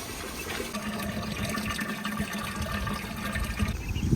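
Tap water running through a hose into a bucket as it fills: a steady splashing hiss, with a steady low hum that stops shortly before the end.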